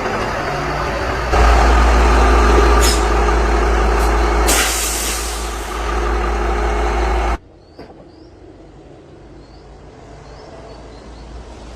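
Heavy dump truck's diesel engine running with a deep rumble, with short bursts of air-brake hiss. The engine sound cuts off abruptly about seven seconds in, leaving a much quieter background.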